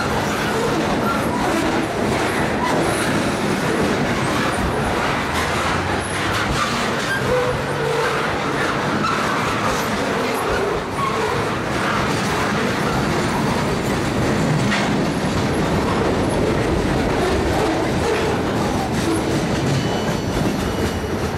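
Norfolk Southern freight train rolling steadily past at close range. Its loaded centerbeam lumber flatcars and boxcars have steel wheels clattering over the rail joints.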